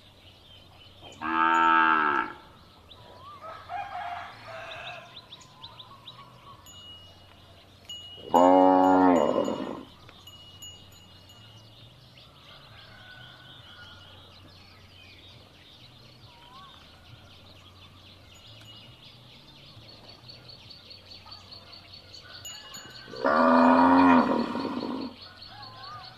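Cow mooing three times, each call a loud low pitched moo lasting one to two seconds, with long gaps between them. Faint ringing tones, like small bells, sound in the gaps.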